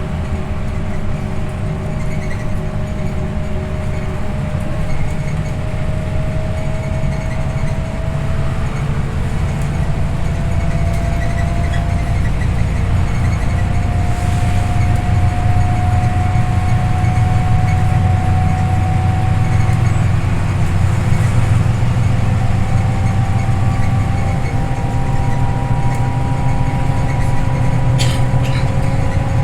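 Scania OmniLink I city bus under way: a steady low engine drone with a thin whine that climbs slowly in pitch as the bus gathers speed, getting louder through the first half.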